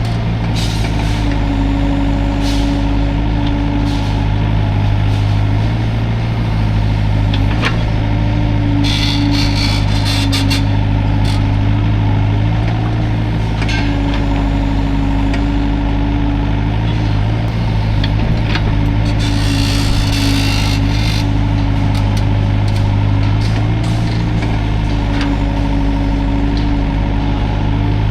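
Hydraulic excavator's diesel engine running steadily under working load, its drone swelling and easing as the hydraulics work. Two short bursts of hiss and clatter come through, about a third of the way in and again about two-thirds in.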